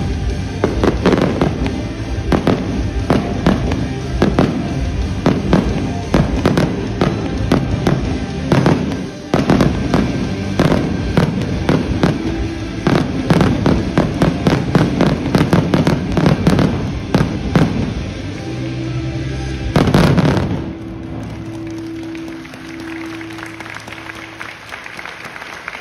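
Fireworks display: aerial shells and firecrackers banging and crackling in a rapid volley, several reports a second, with music playing underneath. The bangs build to a loud finale about twenty seconds in and then stop, leaving only the music.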